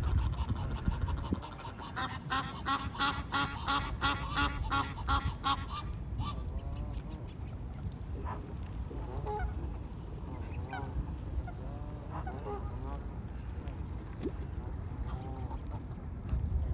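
Geese honking: a fast run of calls, about four a second, for a few seconds, then scattered softer calls, over a steady low rumble.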